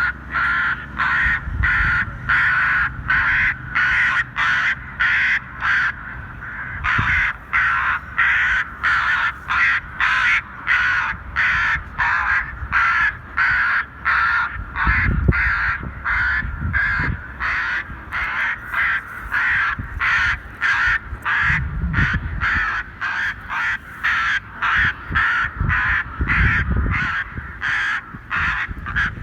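Bird-scaring distress calls from a wildlife patrol's loudspeaker: harsh crow-like caws repeated about two or three times a second, with a short pause about six seconds in. Occasional low rumbles sound underneath.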